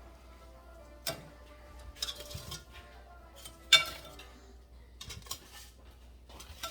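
Scattered clinks and knocks of kitchen utensils and dishes being handled, the loudest a little past the middle.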